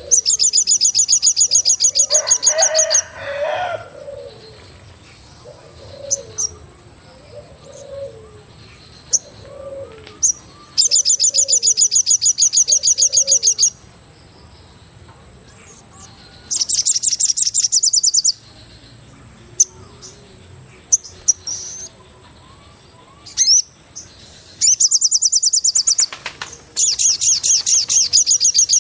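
Forest birds: a loud, high, rapid trill repeated five times in bursts of about two to three seconds, with a soft series of low cooing notes in the gap between the first two trills, typical of a dove.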